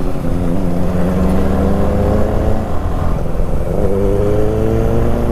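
Benelli 600i's inline-four engine and loud exhaust accelerating hard. The pitch climbs steadily, drops briefly at a gear change a little over halfway, then climbs again.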